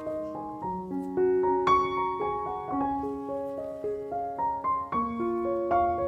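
Background piano music, a gentle melody of single notes.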